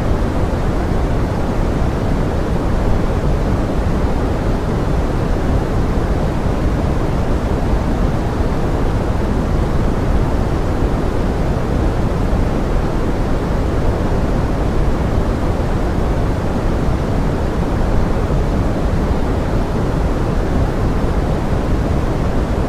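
Steady pink noise: an even, deep rushing hiss, heaviest in the low end, with no separate drops or other events standing out.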